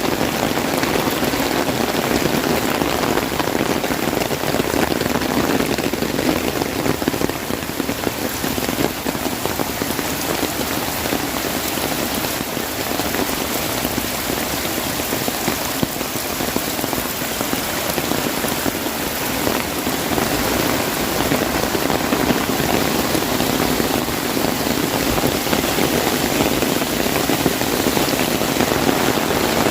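Heavy rain drumming on an umbrella overhead: a dense, steady patter of drops with no let-up.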